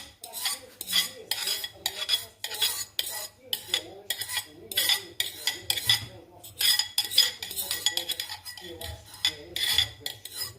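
Metal spoon stirring in a pot, scraping and clinking against its sides about two to three times a second, each stroke with a short metallic ring.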